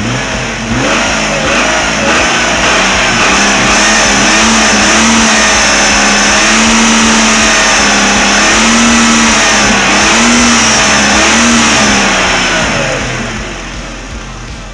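Jeep Grand Cherokee's 4.0-litre straight-six engine running and being revved up and down several times, started as a test run after a harmonic balancer replacement. It comes up loud about half a second in and drops away near the end.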